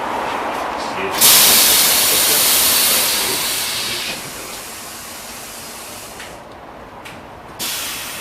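LM-99K tram running along the rails with a steady rolling noise. About a second in, a sudden loud hiss starts and fades over the next few seconds. A second, shorter hiss comes near the end.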